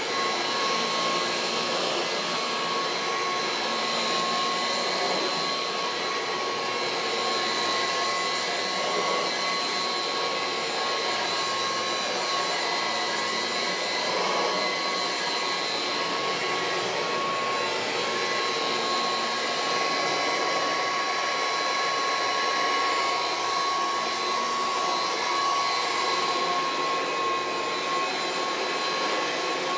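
Kirby Heritage II upright vacuum cleaner running steadily: a rush of air with a steady high-pitched whine from the motor and fan.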